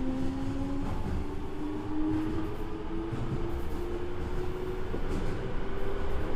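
Toei 5300-series subway train running, heard from beside the cab of a motor car: a steady rumble of wheels on rail with the motor and inverter tones climbing slowly in pitch as the train gathers speed, fading out near the end.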